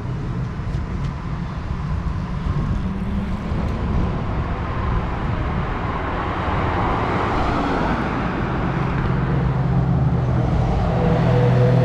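Cars driving slowly past, one passing by around the middle, then an engine's low steady note growing louder as another car approaches near the end.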